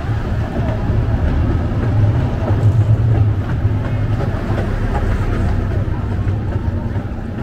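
Casey Jr. Circus Train running along its track, a steady low rumble of the cars rolling on the rails, heard from inside a passenger car.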